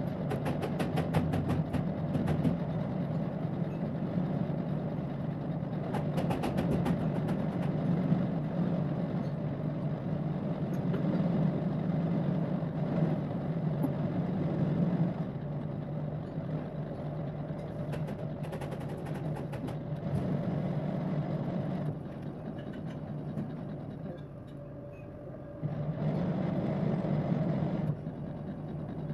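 Lathe machine running with a steady hum while cutting metal, with short bursts of rapid ticking a few times. It drops quieter for a few seconds near the end, then picks up again.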